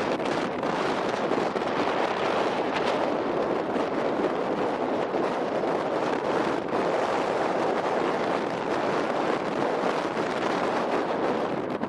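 Steady rushing noise of wind on the microphone over the even roar of city traffic.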